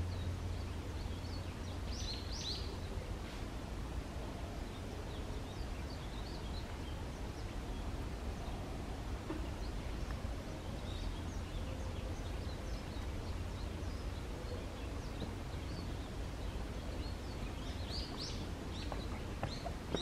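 Forest ambience: scattered short, high bird calls, bunched about two seconds in, again around ten seconds and near the end, over a steady low rumble.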